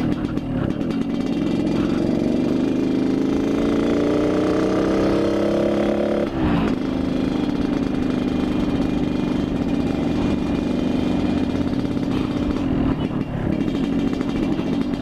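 Yamaha RX-King two-stroke single-cylinder motorcycle engine under way, its pitch rising for a few seconds, dropping sharply about six seconds in, then holding steady.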